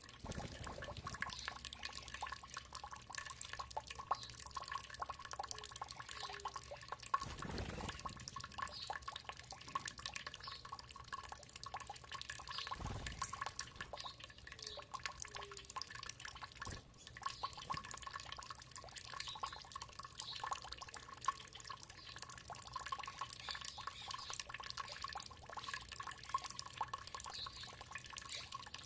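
Water trickling and dripping in a dense, continuous patter of small splashes, with two brief low rumbles about 7 and 13 seconds in.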